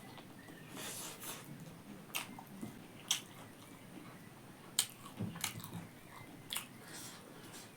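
A person chewing and biting pork, close to the microphone: a series of short, sharp mouth clicks and crunches at irregular intervals, the loudest about five seconds in.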